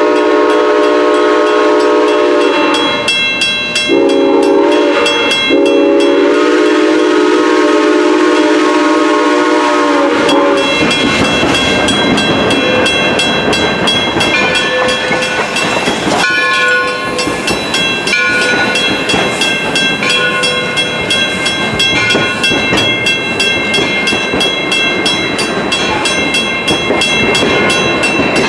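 A locomotive sounds its warning signal, a chord of several notes at once: a long blast, a short one and another long one, ending about ten seconds in. Then the train rolls past close by, its wheels rumbling and clattering on the rails with thin metallic squeals now and then.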